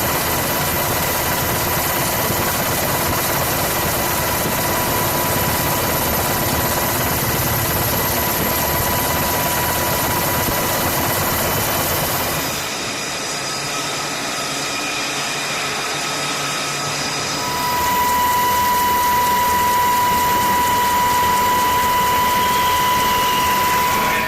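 Steady, loud engine noise with a constant high whine. It turns quieter and thinner for a few seconds about halfway through, then comes back.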